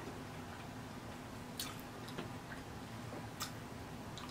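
Close-up mouth sounds of chewing a soft corn street taco: quiet wet chewing with a couple of sharp mouth clicks, one about a second and a half in and another near three and a half seconds, over a faint steady hum.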